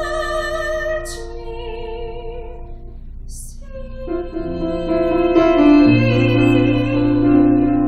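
Classically trained soprano singing a phrase with wide vibrato over piano accompaniment; about four seconds in the voice drops out and the piano plays on alone with held chords.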